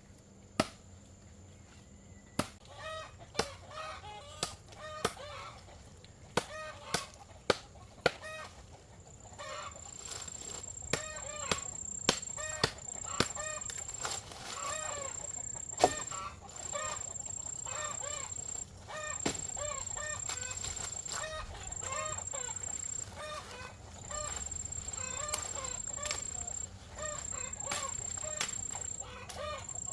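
Chickens clucking and calling over and over, with sharp knocks about every second through the first half. From about ten seconds in, a high thin whine sounds in stretches of a second or two.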